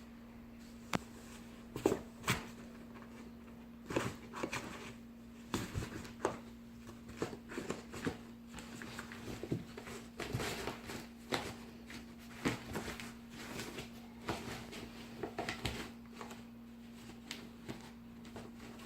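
Cats scratching, pawing and scrambling in a cardboard box: irregular rustles, scrapes and soft knocks, over a steady low hum.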